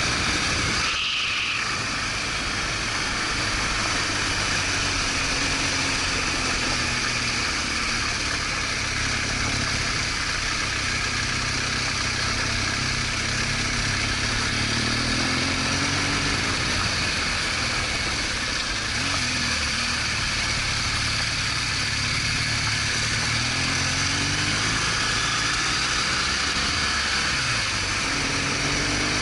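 BMW R1200GS Adventure's boxer-twin engine running steadily while riding, under a constant rush of wind and road noise. The engine note rises and falls a few times with throttle changes.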